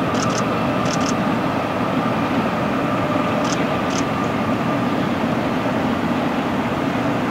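Union Pacific double-stack intermodal train rolling across a steel trestle bridge: a steady rumble of wheels on the rails, with a steady tone that fades out about five seconds in and a few brief high squeaks.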